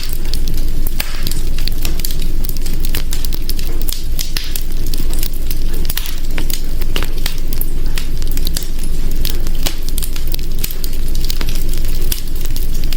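Wood fire in a hearth crackling steadily: a constant low rumble of burning with many sharp pops and snaps scattered throughout.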